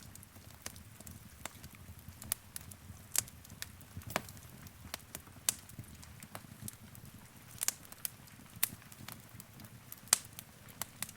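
Wood fire in a fireplace crackling: irregular sharp pops and snaps over a soft low rumble of the flames, the loudest pop near the end.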